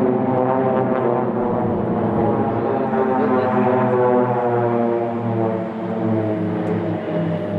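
Pilatus PC-7 single-engine turboprop trainers flying a formation display overhead: a steady, droning propeller tone that shifts slowly in pitch as the aircraft pass.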